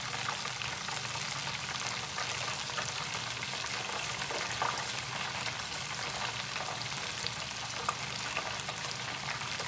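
Beer-battered shrimp deep-frying in hot oil: a steady sizzle with scattered small pops.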